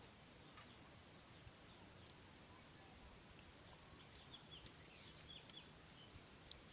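Near silence: faint outdoor background with scattered quick high chirps and ticks, growing busier about four seconds in.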